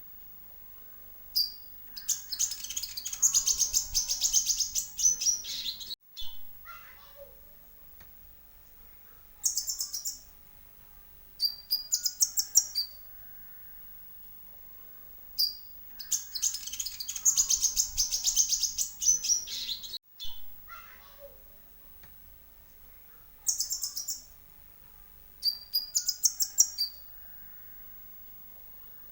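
Konin (kolibri ninja) sunbirds singing: long bursts of high, very rapid trilled chirping with short sharp calls in between and quiet gaps. The same sequence repeats about every 14 seconds, as from a looped lure recording.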